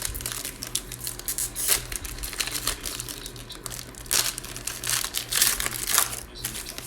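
Trading card pack wrapper being torn open and crinkled by hand: a run of sharp crackling, loudest in clusters about four to six seconds in.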